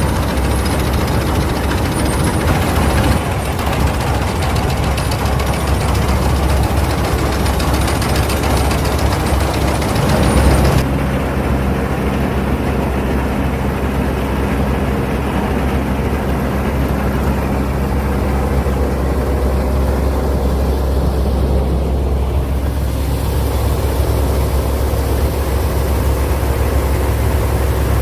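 Claas Mercator 50 combine harvester running steadily. About eleven seconds in, the high hiss drops away, leaving a clearer low engine hum.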